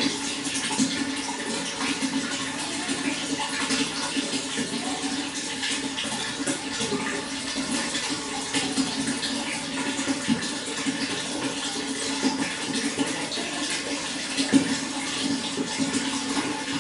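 Running water flowing steadily: a constant rush with many small splashes.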